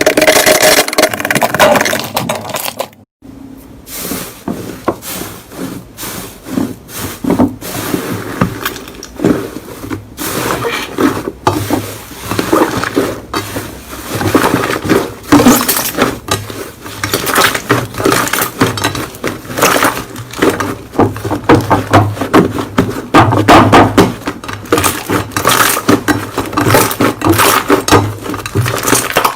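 Slime being played with by hand, poked and squeezed, giving dense, irregular clicks and pops, with a brief break about three seconds in.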